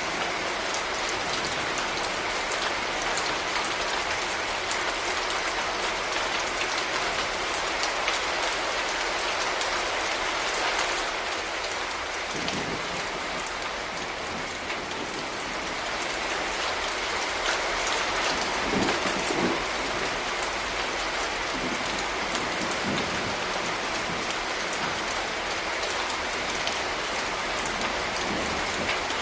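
Steady rain falling, an even dense patter, with a few brief low rumbles about twelve and nineteen seconds in.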